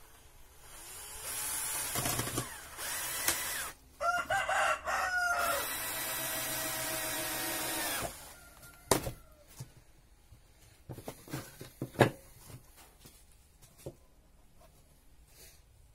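A power drill running in bursts, with a rooster crowing about four seconds in, followed by scattered knocks and taps of wood being handled.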